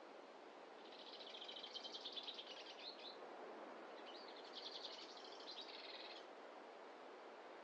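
A songbird singing two rapid, buzzy trilled phrases, the first about a second in and the second a little after four seconds. Both sit over a faint, steady hiss of forest ambience.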